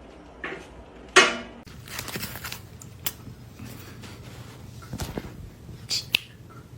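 Cats scuffling: a short, loud cry about a second in, then rustling and a few sharp taps and clicks.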